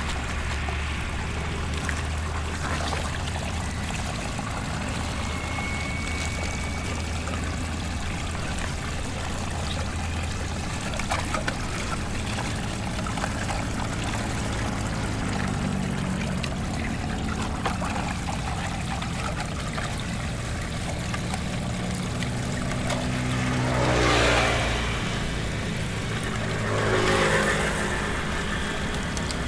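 Motor vehicle engines humming steadily over the noise of flowing floodwater, with two vehicles passing close by near the end.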